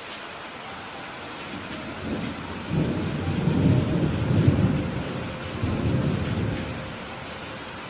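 Thunder rumbling over steady rain: a low roll swells about two seconds in, peaks through the middle and dies away near the end, while the rain hiss carries on underneath.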